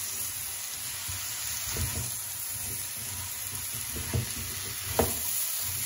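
Spiced vegetable pickle mixture sizzling in oil in a non-stick wok while it is stirred with a silicone spatula. A few knocks of the spatula against the pan break through, the loudest about five seconds in.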